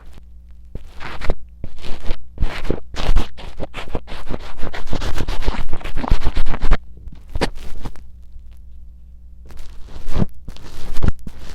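Close-up scratching and scraping strokes of sticky earwax being pushed into a mini microphone's ear, in quick irregular strokes over a steady low hum. The strokes are densest mid-way, ease off after about seven seconds and start again near ten seconds.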